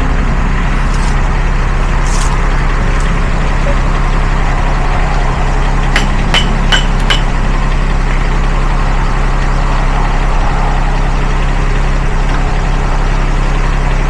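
Engine idling steadily with a low, even hum. About six seconds in come four sharp metallic clicks in quick succession.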